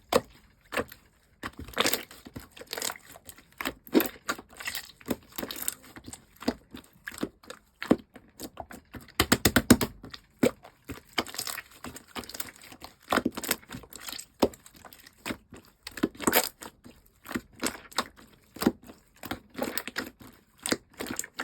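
Slime being squished, poked and stretched by hand, giving irregular sticky clicks and air-bubble pops, with a quick run of clicks about nine seconds in.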